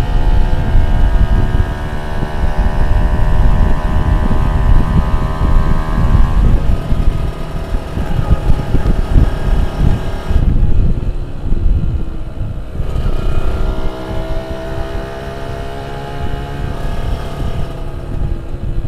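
Two-stroke engine revving under throttle. The pitch climbs steadily over the first several seconds, the engine eases off a little after halfway, then it climbs in pitch again.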